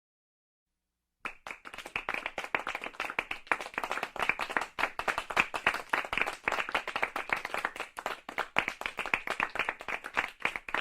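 A group applauding: many hands clapping densely, starting abruptly about a second in after total silence.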